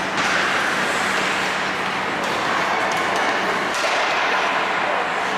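Ice hockey rink sound during play: a steady wash of noise from skates on the ice and the arena, with a few faint clicks and a low steady hum underneath.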